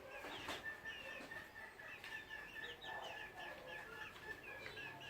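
Chickens clucking and chirping, a string of short high chirps about two or three a second, over a faint steady high-pitched whine.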